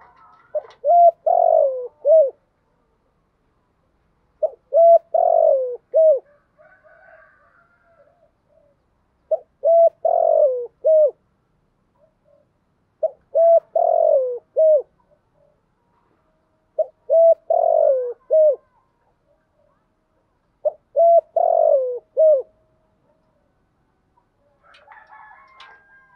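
Spotted dove cooing: six phrases about four seconds apart, each a short run of low, bending coo notes.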